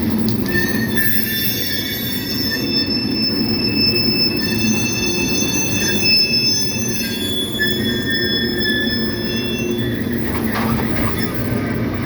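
Coal train's cars rolling past with a steady low rumble. The wheels squeal in several high, held tones that come and go from about a second in until near the end.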